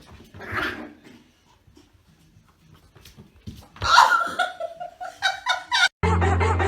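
A short breathy huff, then a loud run of laughter in quick bursts. Music cuts in abruptly near the end.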